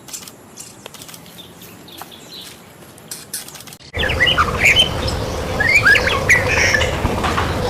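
White-rumped shama singing: sparse, faint chirps and clicks at first, then about four seconds in the sound jumps abruptly louder into dense runs of quick sweeping whistled notes, over a steady low hum.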